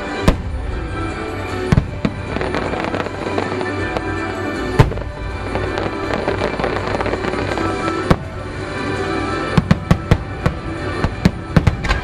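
Fireworks shells bursting over the show's recorded holiday music. There are single booming reports every few seconds, then a rapid string of bangs over the last two to three seconds as the barrage builds.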